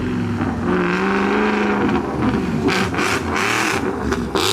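A car engine revving up as the car pulls away, its pitch climbing for about a second, followed by louder rushing exhaust and road noise near the end.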